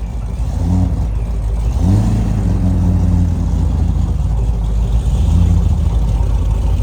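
Car engine running over a constant low rumble, with a brief rise in engine note just before a second in. A longer, steadier engine note follows from about two seconds to about five and a half seconds.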